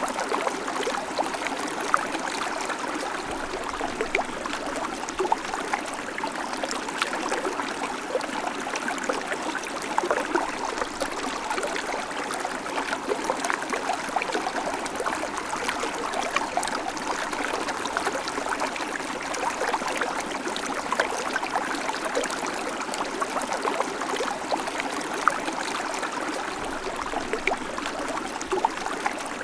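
Babbling creek: water running and splashing over stones, a steady rush with many small bright splashes and trickles scattered through it.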